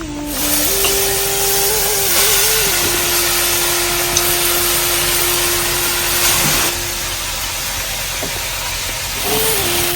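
Heavy rain falling, a loud even hiss that eases a little about two-thirds of the way through. A faint low tone, shifting in pitch in small steps, runs underneath.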